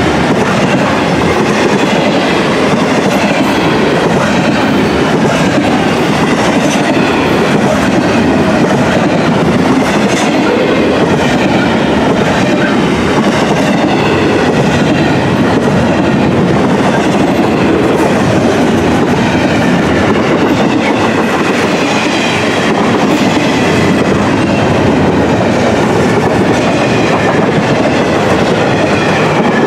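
Freight train passing at speed: intermodal container cars rolling by with a steady, loud rumble and clatter of wheels on rail. Faint, wavering high wheel squeal runs through it.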